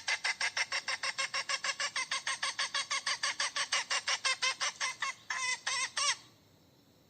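Hen cackling: a fast, even run of short clucks, about seven a second, then three longer calls, stopping abruptly about six seconds in.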